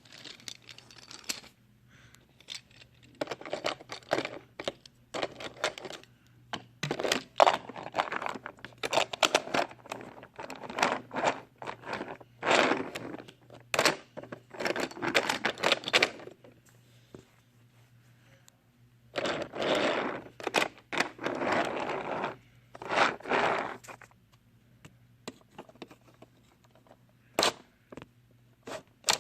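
Small hard objects being handled: a run of scrapes, clicks and knocks, busiest in two stretches and thinning out near the end, over a faint steady low hum.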